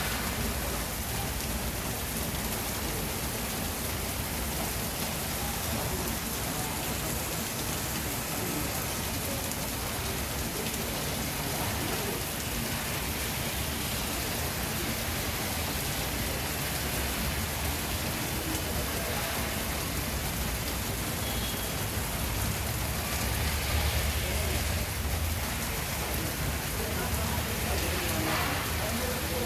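Heavy rain falling steadily, an even rushing hiss, with a low rumble swelling briefly about three-quarters of the way through.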